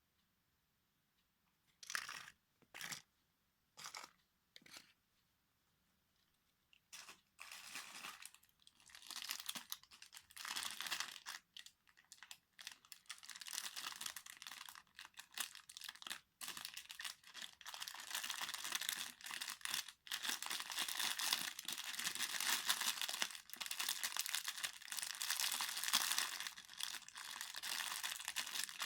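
Toy cars being crushed and ground under a high-heeled shoe: four short cracks about two to five seconds in, then dense, continuous crackling from about seven seconds on.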